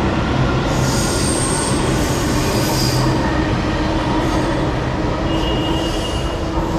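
Delhi Metro train running on the rails: a steady loud rumble, with high-pitched wheel squeal coming in twice, about a second in and again near the end.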